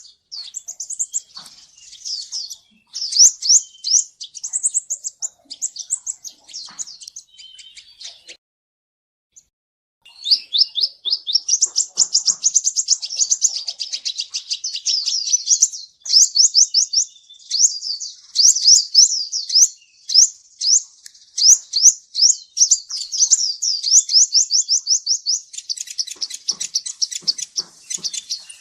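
Kolibri ninja (a sunbird) singing: long runs of fast, high, sweeping chirps, broken by a pause of about two seconds roughly a third of the way through.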